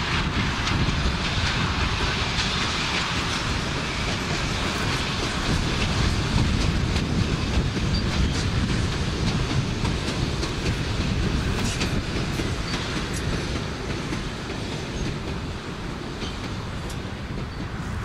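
A steam-hauled passenger train's carriages rolling past on the rails: a steady rumble with wheels clicking over the track, easing off a little near the end as the train moves away.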